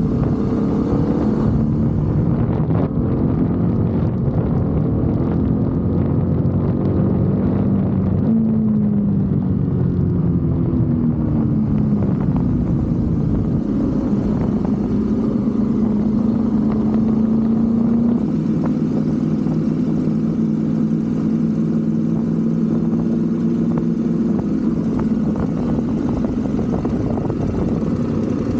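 BMW F 850 GS 853 cc parallel-twin engine running while riding. Its pitch rises and falls several times with the throttle, then holds steady for roughly the last third.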